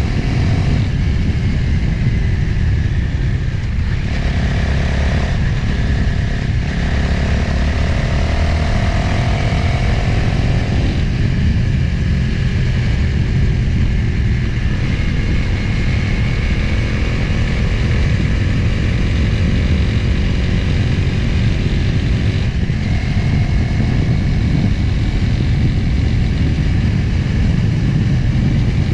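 Motorcycle engine running under way, with wind rushing over the microphone; the engine note climbs a few times as the bike accelerates.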